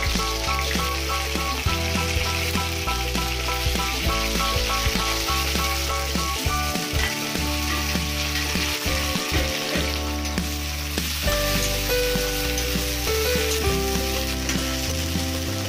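Chopped okra sizzling as it fries in hot oil in an aluminium kadhai, with a ladle stirring it. Light background music plays with steady notes.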